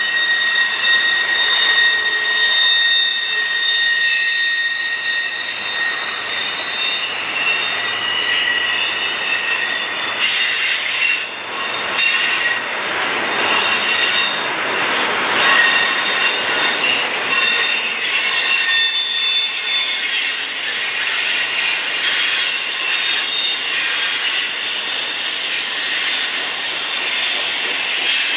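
Double-stack intermodal well cars rolling past on a freight train, a steady rumble of steel wheels on rail. Over it, wheels squeal in thin high tones that come and go.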